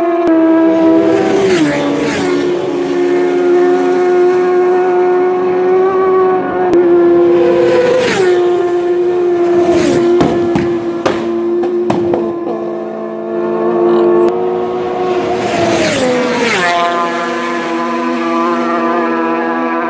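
Racing motorcycles passing at speed, four times, each engine note dropping in pitch as it goes by. Under the passes a steady, high engine-like drone holds throughout.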